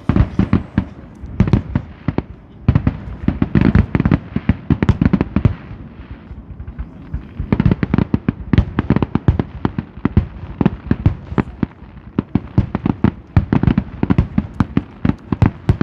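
Fireworks display going off in a rapid barrage of bangs and crackles, easing briefly about six seconds in before picking up again.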